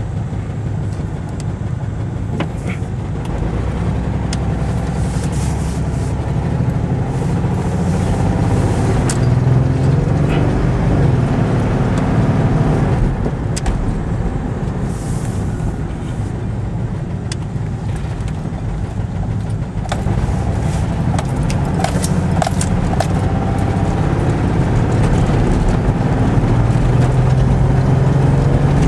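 1996 Chevy S10 Blazer's 4.3-litre V6 running loudly through a bad muffler, its note rising and falling with engine speed.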